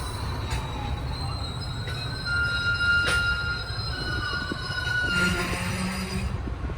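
Train passing on the rails: a steady low rumble with wheels squealing in thin, high, steady tones, and a sharp click about three seconds in.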